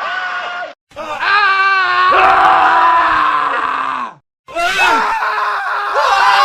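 Men screaming in a spliced montage, one recording cut hard into the next. A short scream stops dead just under a second in. A long, wavering scream follows and falls in pitch before it cuts off about four seconds in. After a brief silence, more screaming starts.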